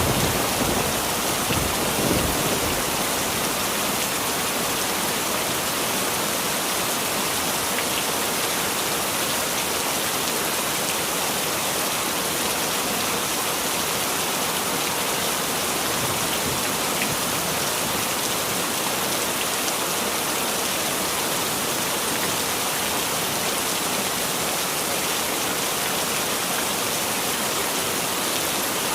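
Heavy rain falling steadily, an even hiss of rain on surfaces. A roll of thunder dies away in the first couple of seconds.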